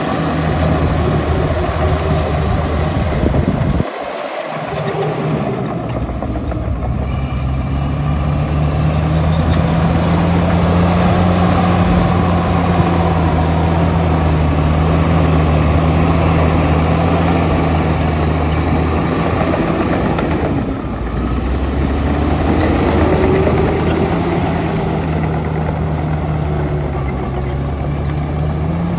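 Heavy diesel earthmoving machinery running steadily, its engine note climbing slightly as it works, with a brief sudden drop about four seconds in and another short dip later on.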